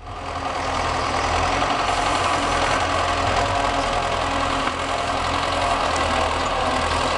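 An engine idling steadily at the repair site, with no change in speed.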